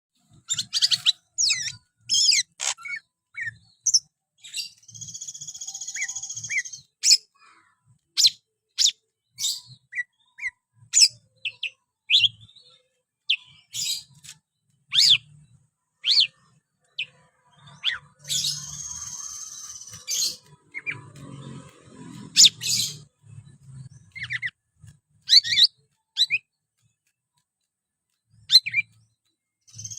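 Green leafbird (cucak ijo) in full, energetic song: a fast run of short, sharp whistled notes that sweep down in pitch, broken twice by longer buzzy, rasping phrases of one to two seconds. Soft low knocks sound underneath.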